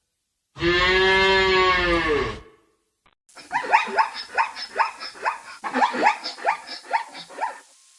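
Animal calls: one long, evenly pitched call lasting about two seconds, then, after a short break, a rapid series of about a dozen short calls, roughly three a second.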